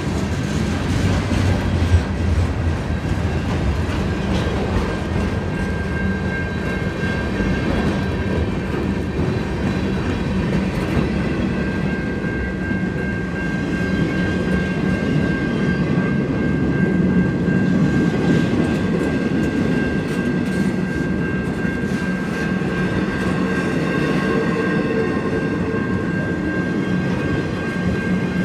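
Freight train rolling past, its wheels clacking over the rail joints, with a steady high-pitched whine that grows stronger about halfway through.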